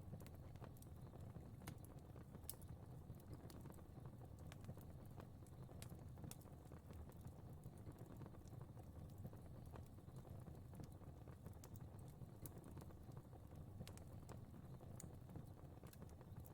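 Fireplace fire burning faintly: irregular sharp crackles and pops over a low, steady rumble.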